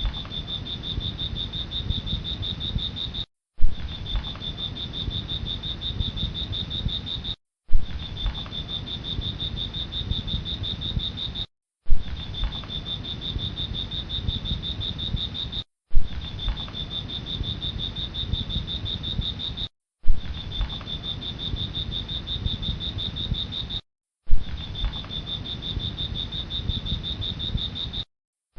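Crickets chirring in a steady high trill over a low rumble, played as a short loop: about every four seconds it drops out briefly and restarts with a loud pop.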